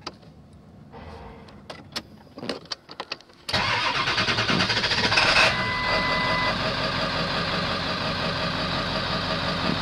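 A few clicks, then about three and a half seconds in the 7.3-litre Power Stroke V8 turbo-diesel of a 2002 Ford F-350 starts suddenly and settles into a steady idle, with a short beep about two seconds later. It is running rough, which the owner puts down to an injector going bad.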